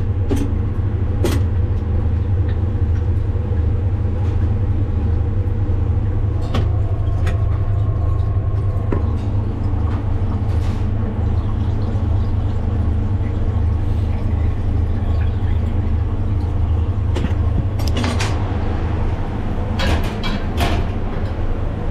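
A steady low machine hum, with a few sharp clicks and knocks about a second in and again near the end.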